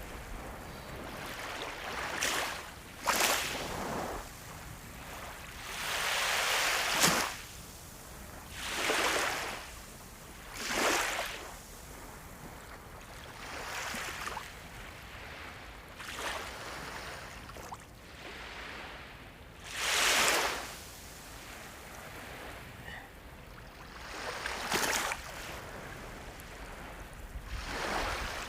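Sea waves breaking and washing ashore, the surf rushing in and ebbing in uneven swells every couple of seconds. The strongest breakers come about seven and twenty seconds in.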